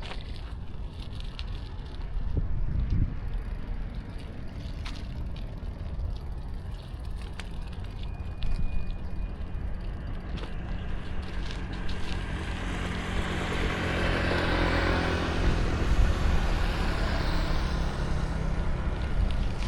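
City street traffic heard from a moving bicycle: a steady low road and wind rumble, with a vehicle drawing close in the second half and passing, loudest a few seconds before the end.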